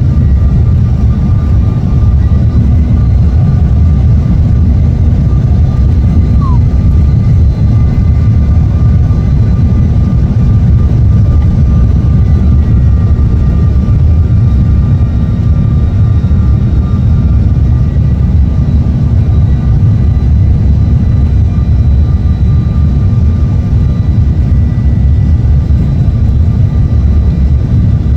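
Airliner cabin noise on approach: a loud, steady low rumble of engines and airflow heard from inside the cabin, with a faint steady whine over it.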